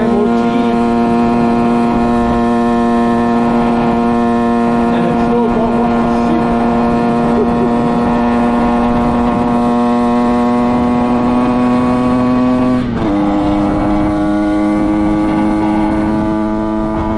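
Derbi Senda motorcycle engine running at a steady speed with an even, held pitch. About 13 seconds in there is a brief dip and click, after which it settles at a slightly different pitch.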